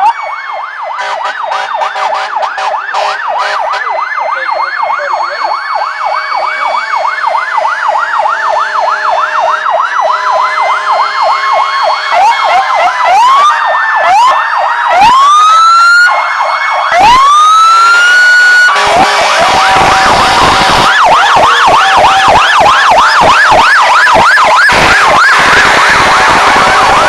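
Fire truck sirens sounding: a fast warbling yelp that rises and falls about three times a second, then several sirens winding up in pitch and holding high. In the last third it turns louder and denser, with more than one siren yelping over one another.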